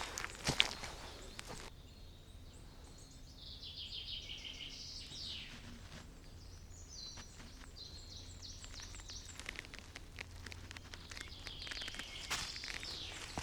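Songbirds singing, a run of high chirps and trills that come and go. A few footsteps on the forest floor sound in the first second or two and again near the end.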